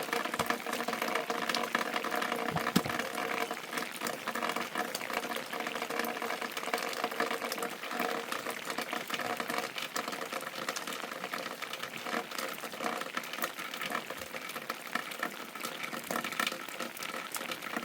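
Steady rain with water running and dripping, full of small ticks.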